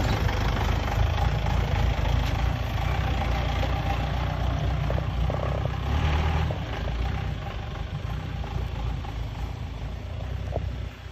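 Mahindra jeep's engine running with a steady low rumble, a little quieter after about seven seconds.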